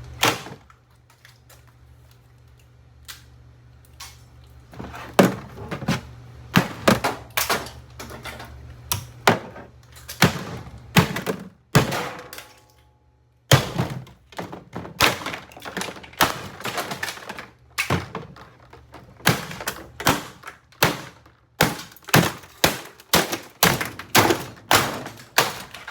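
A Hamilton Beach 46310 drip coffee maker's plastic housing being struck over and over, sharp knocks and cracks in uneven runs, some in quick succession, with a short break about halfway.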